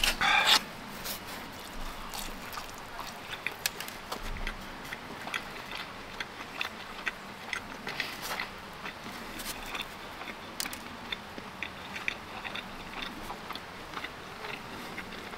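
A person chewing pizza close to the microphone: irregular short wet clicks, several a second. A louder short burst comes right at the start.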